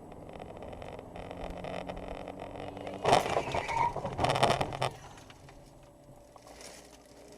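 A car running with steady engine and road noise that slowly grows louder, then a loud, noisy stretch of about two seconds starting around three seconds in, after which the car noise drops back.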